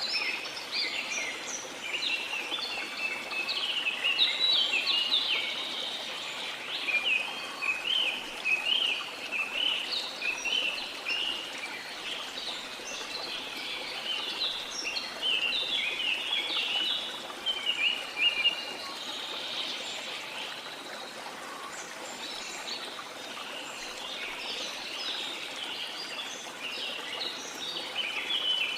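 Many birds chirping and singing in a dense chorus of short calls over the steady rush of a waterfall. The chirping thins out for a few seconds past the middle, then picks up again near the end.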